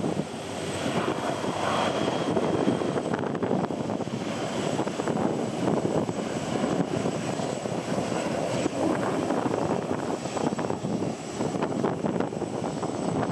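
Jet airliner engines running at an airport, a steady roar mixed with gusty wind buffeting the microphone.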